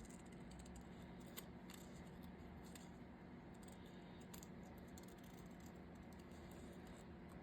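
Scissors fussy cutting around a paper sticker: a few faint, sparse snips over a low steady hum.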